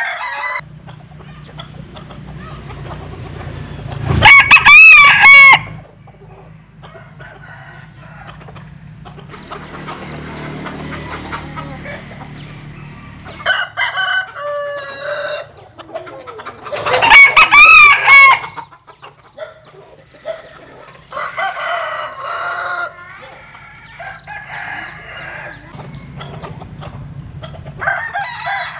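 Jap Cuban bantam roosters crowing: two loud crows, about four and seventeen seconds in, each lasting about a second and a half, with shorter, fainter crows and clucks between them.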